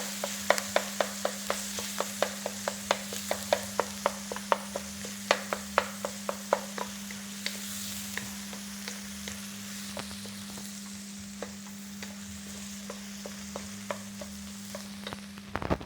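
Stir-fry sizzling in a hot oiled pan while a utensil clacks rapidly against the pan, breaking up the eggs; the clacks thin out over the second half. A steady low hum runs underneath.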